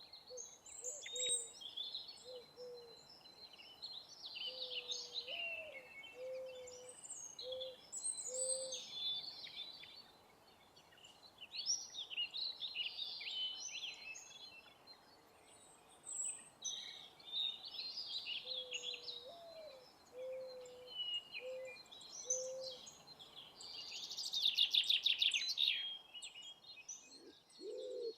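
Songbirds chirping and singing in short high phrases over a faint steady hiss. A dove coos in two runs of low repeated notes, one note rising in each. Near the end a loud buzzy trill is the loudest call.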